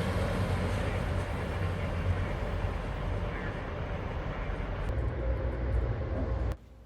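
Freight train of autorack cars rolling past, a steady rumble with low engine-like tones that slowly fades, then cuts off abruptly near the end.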